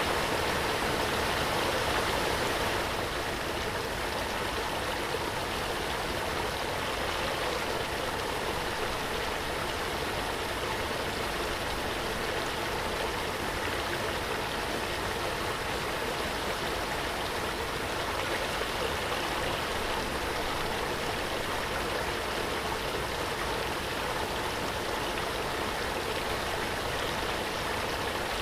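Waterfall: a steady, even rush of falling water with no breaks. It turns slightly softer and less hissy about three seconds in.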